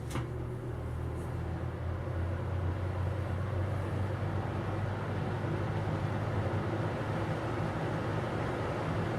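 Air King 9723C 20-inch box fan running, a steady motor hum under the rush of moving air. A sharp click comes at the very start, and the sound then grows louder over about two seconds before holding steady.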